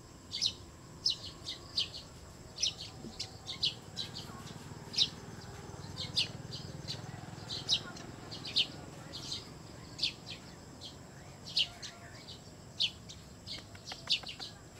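A small bird chirping over and over: short, sharp, high-pitched chirps, irregularly spaced, about one or two a second.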